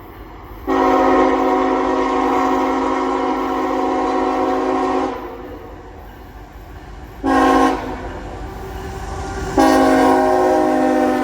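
CSX diesel locomotive's air horn sounding a long blast of about four seconds, then a short blast about seven seconds in, then another long blast near the end. A low rumble from the approaching coal train runs underneath.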